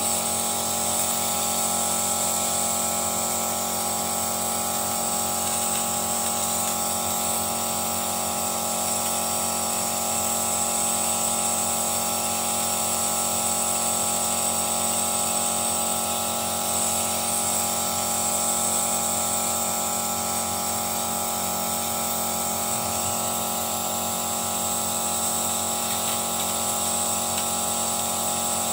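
Mitsubishi Mirage's three-cylinder petrol engine running steadily while carbon-cleaner fluid is drawn into it through a vacuum hose, with a constant high whine on top.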